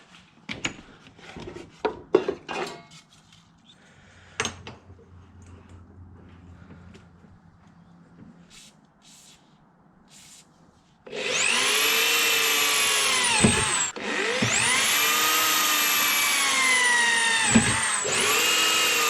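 Loose steel pieces clinking and knocking as they are handled. About two thirds of the way in, an electric drill starts boring holes in the steel plate, its motor whine sagging in pitch as the bit bites and recovering. It runs in three stretches with two brief stops.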